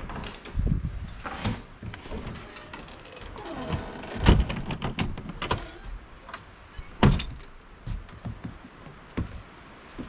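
Scattered knocks and thumps of things being handled and moved, with a faint creak or squeak about three seconds in; the loudest knocks fall about four and seven seconds in.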